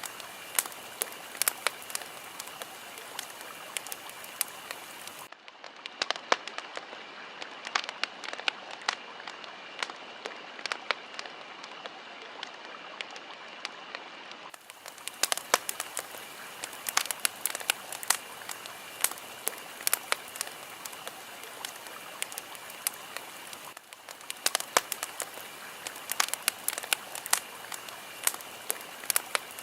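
Fire crackling, with frequent sharp pops over a steady hiss. About five seconds in the sound turns duller, then brightens again about nine seconds later.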